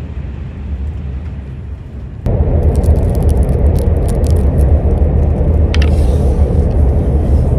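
Loud, steady low rumble that jumps suddenly louder about two seconds in, with scattered light clicks and rattles over it.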